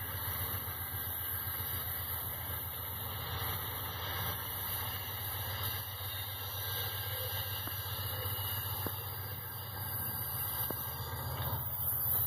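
Diesel-hauled freight train approaching around a tight curve. The locomotives make a steady low rumble under a continuous high-pitched squeal of wheel flanges grinding against the curved rails. The sound grows slightly louder near the end.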